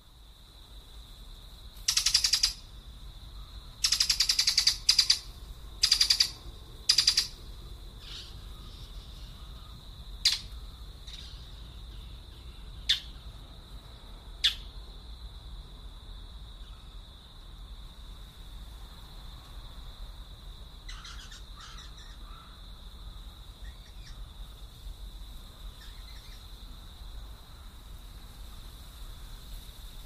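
Birds calling: a run of loud, harsh calls in the first seven seconds, then three short sharp chirps and a few fainter calls later, over a steady high-pitched hum.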